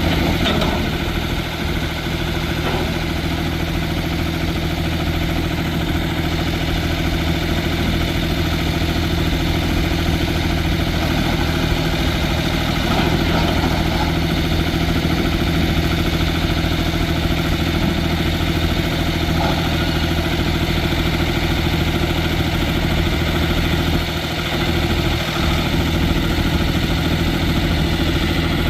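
Diesel engine of a Ford 3500 loader backhoe running steadily at idle.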